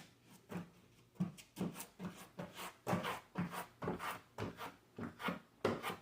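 Hand tool rubbing back and forth on a drywall patch in short repeated strokes, about two to three a second.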